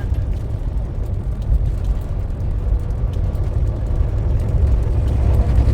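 Steady low rumble of a heavy truck's engine and road noise heard from inside the cab, with a faint steady hum above it.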